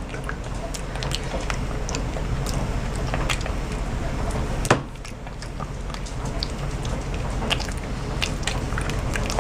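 Pet monkey chewing and biting food close by, with scattered wet clicks and smacks and one louder click a little under five seconds in.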